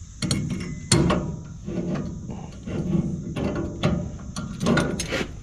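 Metal clinks and clunks as a tractor's three-point-hitch stabilizer arm and its pins are handled and offered up into place, with a few sharp clicks.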